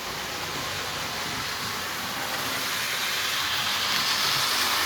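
A 1952 Lionel No. 675 2-6-4 toy steam locomotive and its 2046W tender running in reverse on the track: a steady mechanical running noise that grows louder about three seconds in.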